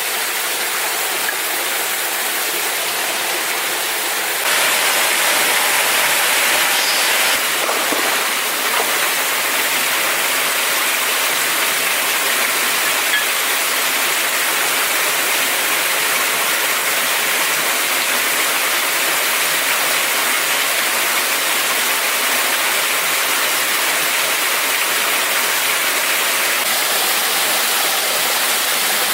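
Steady rush of falling water from a waterfall, a little louder from about four seconds in.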